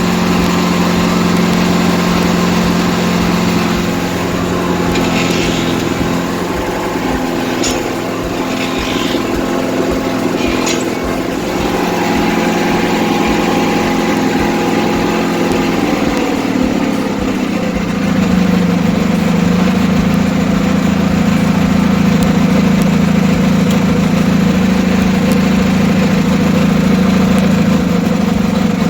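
John Deere 316 garden tractor's engine running steadily, just started on choke; about sixteen seconds in, its speed drops and it settles into a lower, steady idle.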